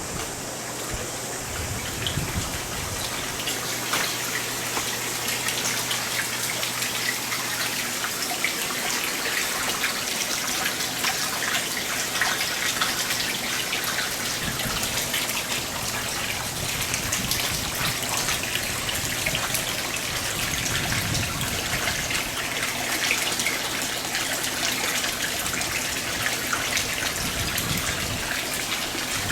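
Water splashing and trickling in a fish pond, a dense patter of small drops and splashes, with a steady low hum that fades out about halfway through.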